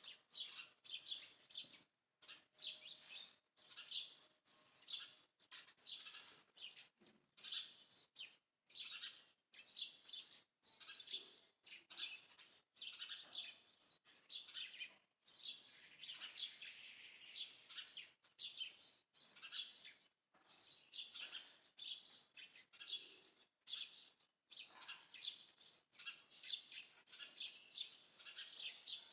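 High-pitched chirping calls in short bursts about once a second, with a denser, busier stretch about halfway through.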